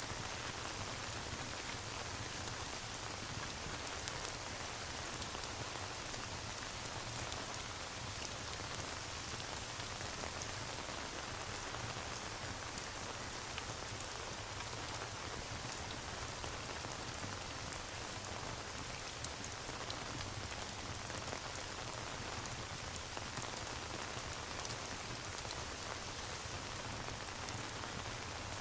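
Steady rain falling, an even patter with a few faint clicks now and then.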